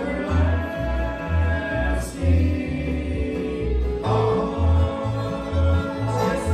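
Live bluegrass band music: a bass keeps a steady alternating beat under the string instruments while voices sing in harmony.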